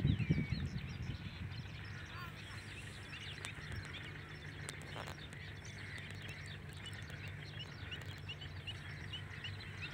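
Birds chirping, many short calls in quick succession, over a low steady hum.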